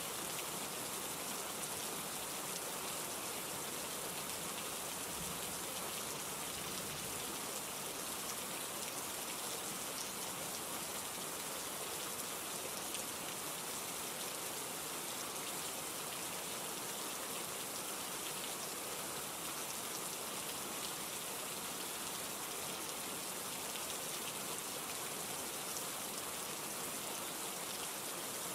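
Steady rain falling, an even hiss of drops that does not change in strength.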